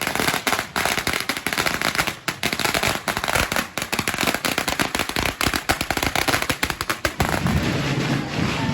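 Firecrackers going off in rapid, dense strings of sharp cracks and bangs. Near the end the cracking gives way to a low rumbling noise.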